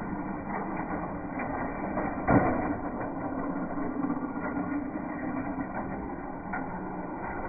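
HO-scale slot cars' small electric motors running around the track with a steady buzzing whir and light clicking, and one sharp knock about two seconds in.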